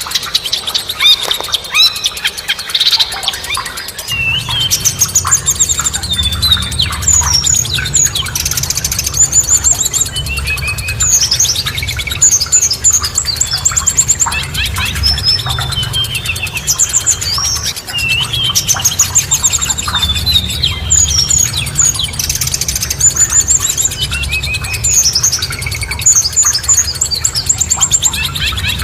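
Several songbirds chirping and singing over one another, with quick repeated down-slurred whistles and trills. A steady low rumble joins underneath about four seconds in.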